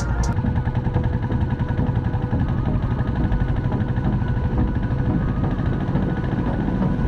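Royal Enfield Bullet motorcycle's single-cylinder engine and exhaust running steadily, a rapid even beat of exhaust pulses.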